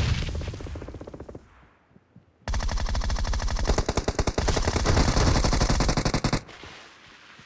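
Video-game automatic gunfire. A loud burst opens the clip and dies away over about a second and a half. After a short lull comes a long, rapid burst of automatic fire, about four seconds, that stops suddenly.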